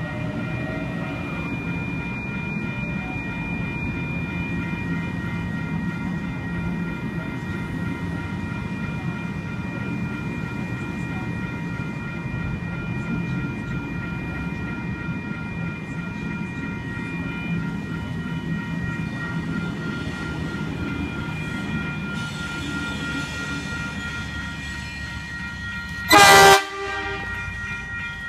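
Waratah electric double-deck train pulling out with a steady rumble that slowly fades. Near the end a sudden, very loud short blast of the train horn cuts in, unexpected.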